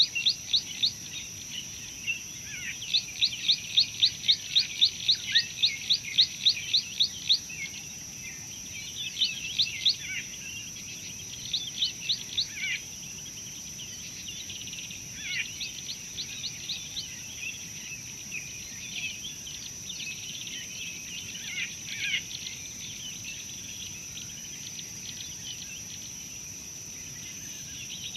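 Birds calling in rapid runs of short, sharp, high chirps, about four a second, the longest run early on and later bouts shorter and fainter, over a steady high-pitched insect drone.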